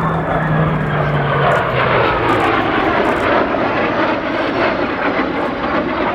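Loud jet noise from an RCAF CF-18 Hornet's twin F404 turbofan engines as it flies past, a low tone dropping in pitch over the first two seconds, then a steady dense roar.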